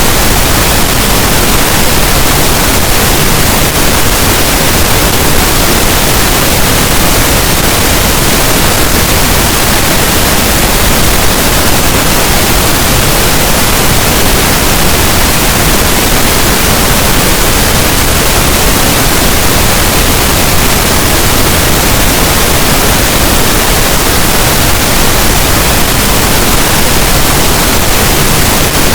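Pink noise: a steady, loud, even hiss spread across the whole range of pitch, unchanging throughout.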